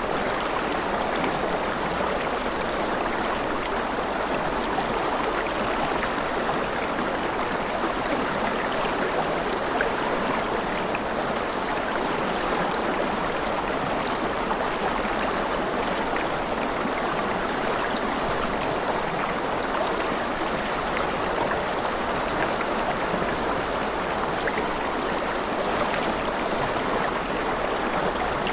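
Rushing river water, a steady, even flow without a break.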